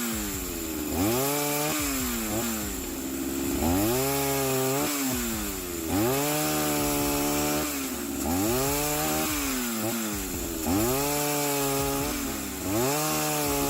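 Chainsaw making repeated cuts. The engine revs up, then its pitch drops as it loads in the wood, about every two and a half seconds, six times over.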